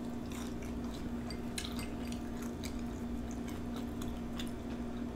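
Close-up chewing of a crunchy Hot Cheeto–coated fried pickle: scattered small crunches and mouth clicks, over a steady low hum.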